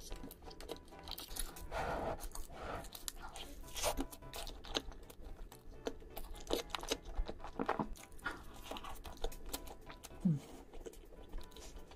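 Close-miked eating: a burger dipped in cheese sauce being bitten and chewed, with many short crunches and mouth clicks.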